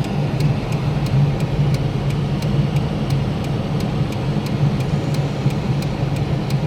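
Steady engine and road noise of a moving vehicle: a constant low drone, with a faint, regular ticking over it.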